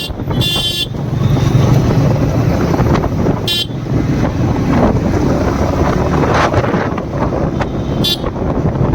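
Yamaha MT-15's single-cylinder engine running under way with road and wind noise, while vehicle horns toot briefly: one about half a second in, a short one around three and a half seconds, and another near the end.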